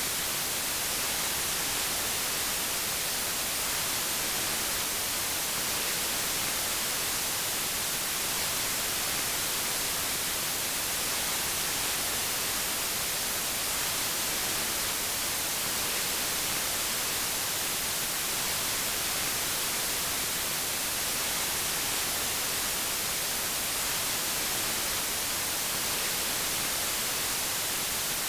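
Steady white noise: an even hiss with no changes, strongest in the high frequencies.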